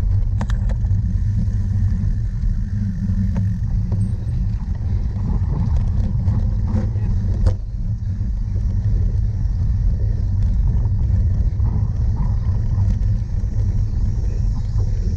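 Steady low rumble of wind on the microphone and riding noise from a cyclocross bike being ridden, with a few sharp clicks and rattles.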